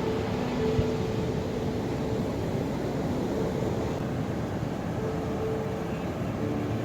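Ocean waves and surf making a steady, even rush with a low rumble.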